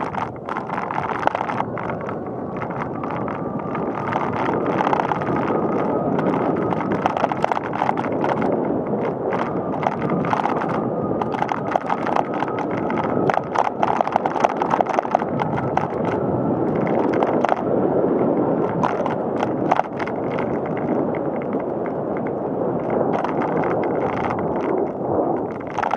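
Bicycle rolling along a paved path: steady tyre and rolling noise with frequent small rattles and clicks.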